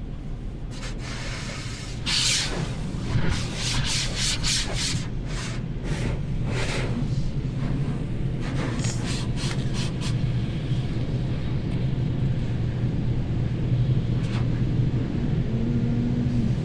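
Automated car wash washing the car, heard from inside the cabin: a run of irregular hissing swishes for the first ten seconds or so, over a steady low hum.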